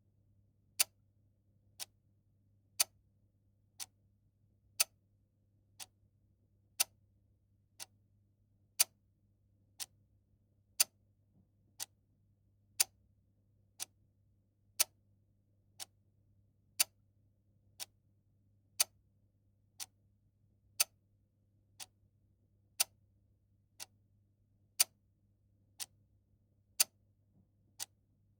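Clock ticking steadily about once a second, the ticks alternating louder and softer in a tick-tock pattern.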